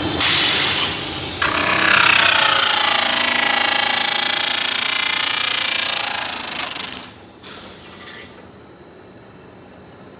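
Loud machine noise, like a power tool at work, with a short break early on. It fades out about seven seconds in, and after a brief last burst only a quieter steady hum remains.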